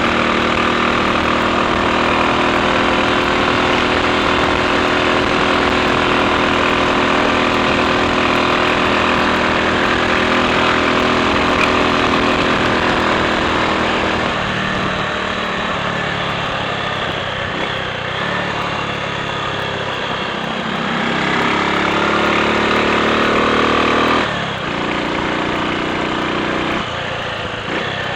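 Triumph Sports Cub's single-cylinder four-stroke engine running while the motorcycle is ridden: steady for the first half, then its pitch shifts up and down, and the sound drops suddenly near the end.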